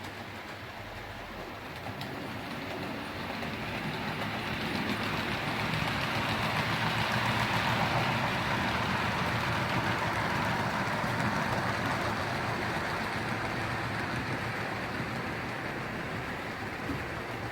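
Model railway diesel train running along the track and passing by, its running noise building to a peak about halfway through and then slowly fading.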